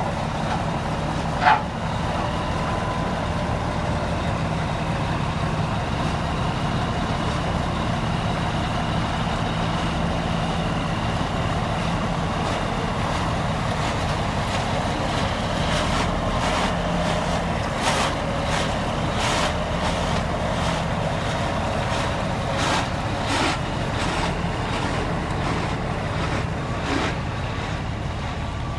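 Diesel locomotives running with a steady low engine drone as they move. There is a sharp bang about a second and a half in, and a run of sharp clicks and knocks in the second half.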